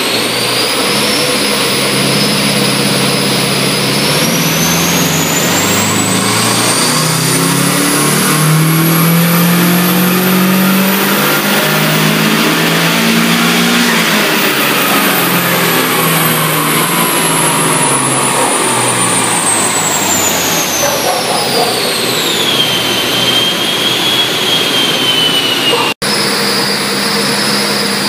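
Turbocharged Mazda FE3 2.0-litre four-cylinder in a front-wheel-drive Mazda MX-6, run up through the revs under load on a chassis dyno for about twelve seconds and then winding back down, with a high whine climbing and falling along with it. After a sudden break near the end it runs at a steady speed.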